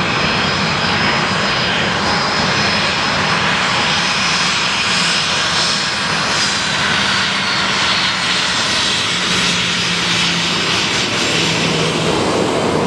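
Taxiing airliners: the turboprops of a Bombardier Dash 8 Q400 running close by, mixed with the turbofans of a WestJet Boeing 737-700. A loud, steady engine noise with a low propeller hum that wavers in and out and a thin high whine above it.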